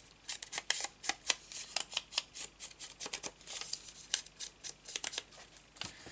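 Ink pad swiped quickly and repeatedly along the edges of a piece of paper, a rapid, irregular run of short brushing strokes, several a second.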